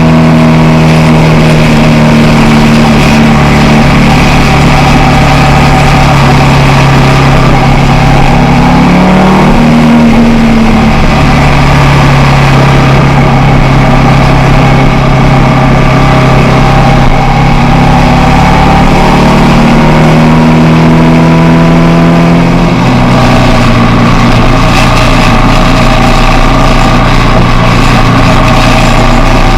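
Motorcycle engine running at a steady pace with a rushing noise behind it. Its pitch rises briefly and then settles lower about nine seconds in, and drops again a little after twenty seconds, as the engine speed changes.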